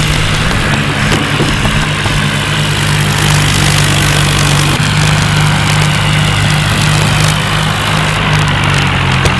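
John Deere tractor's diesel engine running at a steady speed.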